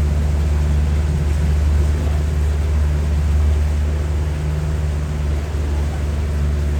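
Safari boat's engine running steadily at a constant low pitch.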